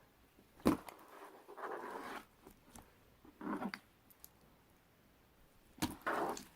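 Marbled slime worked by hand, giving a sharp snap shortly after the start and then three short sticky squishes with quiet gaps between.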